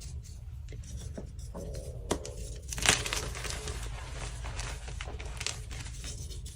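Dyed BSN gym chalk blocks being crushed and crumbled: steady crisp crackling, with a sharp snap about two seconds in and a louder crunch just before three seconds.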